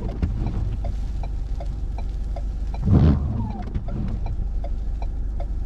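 Car engine idling, heard inside the cabin as a steady low rumble, with a faint, even ticking about three times a second. A brief louder rustle or thump comes about three seconds in.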